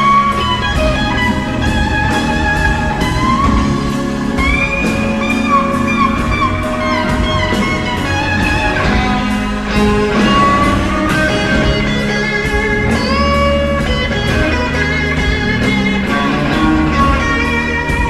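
Electric blues guitar soloing over bass and drums, with bent notes rising in pitch and sustained, singing lines.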